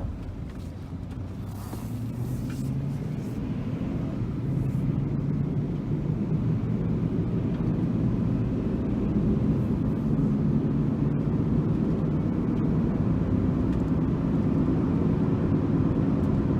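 Chevy 5.3-litre V8 pickup engine and road noise heard from inside the cab as the truck pulls away and accelerates up to road speed. It grows louder over the first several seconds, then runs steadily.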